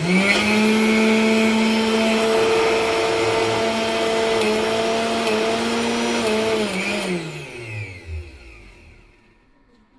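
An electric appliance motor switched on suddenly and running at a steady high speed with a strong whine for about six and a half seconds. It is then switched off and spins down, its pitch falling as it fades away.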